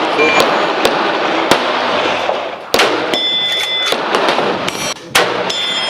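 Rifle shots from a Winchester 1895 Russian musket in 7.62x54R, each a sharp crack with a long echoing tail. The two strongest come about two and a half seconds apart. A faint ringing of a steel gong follows each of them a fraction of a second later.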